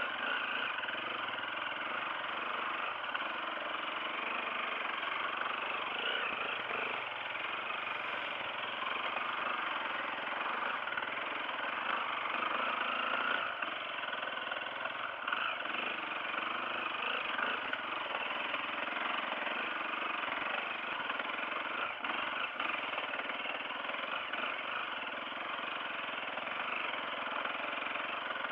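Off-road motorcycle engine running steadily for the whole stretch, with no breaks.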